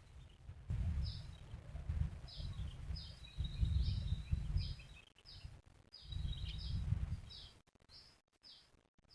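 A small bird calling in a run of short, high chirps, one or two a second, over a low rumble that comes and goes and fades out near the end.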